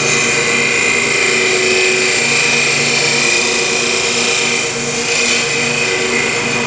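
Wood lathe running while an Easy Wood Tools carbide turning tool with a negative-rake cutter cuts into the spinning wood, a steady whine over a low throb that repeats about twice a second.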